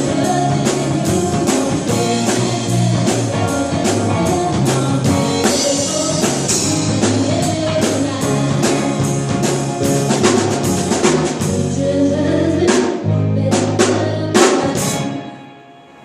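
Live cover band playing, with drum kit beats and bass over the song; the music winds down and stops near the end.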